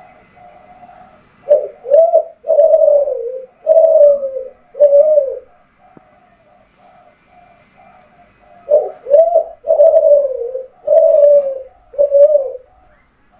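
Spotted dove of the Kelantan song strain (derkuku) cooing. It gives two loud song phrases of about five coos each, notes that bend down at the end, the first starting about a second and a half in and the second near nine seconds in. Fainter cooing carries on in between.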